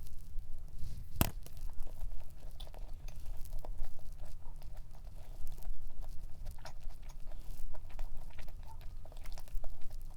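Close-miked eating of a thick cream cheese cup cookie: biting, tearing and chewing with many small irregular crunchy clicks, and one sharp click about a second in. A steady low hum runs underneath.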